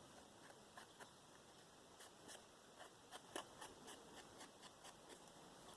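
Very faint, irregular soft taps and short scratches of brown ink being dabbed and rubbed along the edges of paper pieces.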